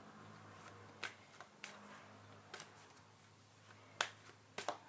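Tarot cards being handled, giving a few faint, sharp card snaps and clicks scattered over several seconds, the loudest about four seconds in.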